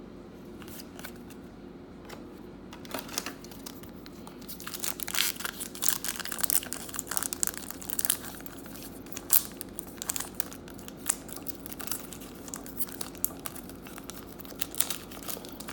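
Hockey card pack wrappers crinkling and tearing as packs are handled and opened. The crinkling starts about three seconds in and continues in dense, irregular bursts over a steady low hum.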